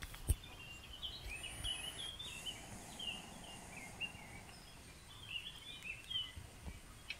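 Small birds singing faintly in short, quick chirping phrases, with a high whistled glide in the first couple of seconds. A single sharp click just after the start is the loudest sound.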